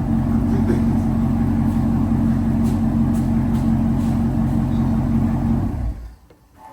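Straight-piped 2017 Camaro SS 6.2-litre V8 exhaust running steadily at an even pitch, cutting off suddenly near the end.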